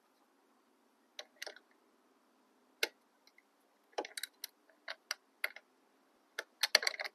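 Irregular sharp metallic clicks and clinks of hand tools: sockets being picked out and tried for size. The clinks bunch into a quick cluster near the end.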